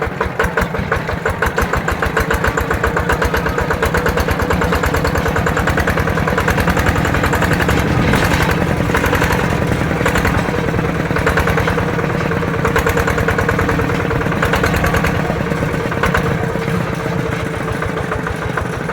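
Mini tractor's single-cylinder diesel engine running steadily under way, with rapid, even firing pulses.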